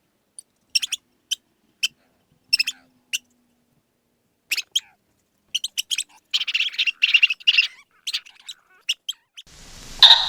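A bird chirping: short, high, separate chirps, with a quicker run of chirps a little past the middle.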